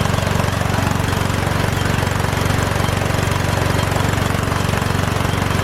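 Piston air compressor running steadily, with a low hum and a fast even pulsing as it builds pressure for an air impact wrench.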